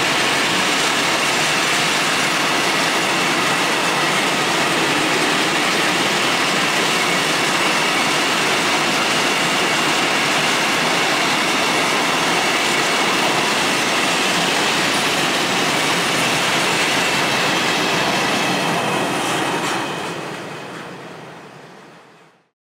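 Freight train of open coal wagons (gondolas) rolling past on the rails, a steady heavy rumble of wheels and bogies with a faint high wheel squeal running through it. The sound fades out over the last few seconds.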